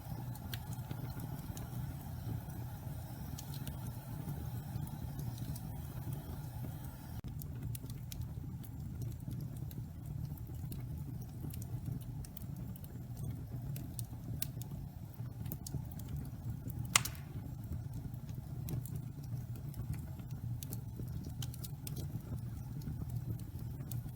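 Damp pine logs burning in a fireplace: a steady low rush of flame with scattered sharp crackles and pops, one louder pop about seventeen seconds in.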